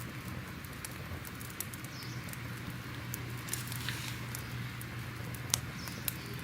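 Wood fire crackling: irregular sharp pops over a steady hiss and low rumble, with one louder pop about five and a half seconds in.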